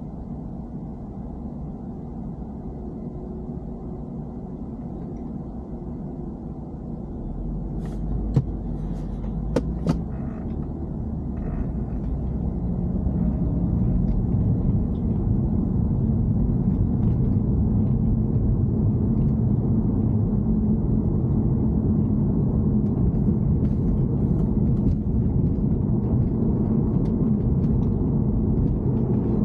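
BMW 3 Series (E90) running on the road, a steady low rumble that grows louder a few seconds in and then holds. There are a few sharp clicks or knocks partway through.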